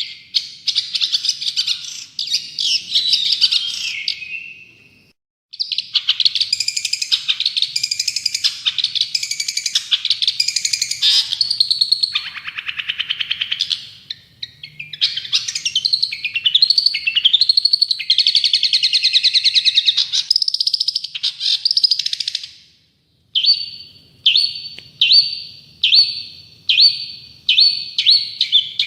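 Long-tailed shrike (cendet) singing loudly in a fast, scratchy, varied chatter, with two brief pauses, then switching near the end to a run of short repeated notes about two a second.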